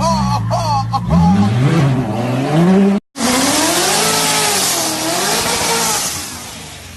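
A supercar engine revs up, its pitch climbing over about two seconds, and then cuts off suddenly at an edit. A second car engine follows with a loud hiss and a rising and falling pitch, fading away near the end.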